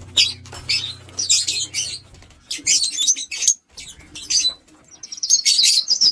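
Pet lovebirds chirping in quick, high-pitched bursts, with a short lull a little over halfway through.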